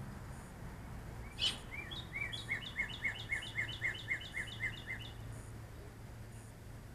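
A songbird singing: one sharp rising call about one and a half seconds in, then a trill of about a dozen quick, repeated falling notes, roughly four a second, that stops about five seconds in. A steady low hum runs underneath.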